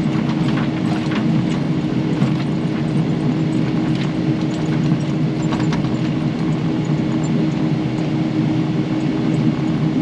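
Kubota KX080 excavator's diesel engine running steadily under load with a constant hum while it digs, with a few light clicks and knocks scattered through.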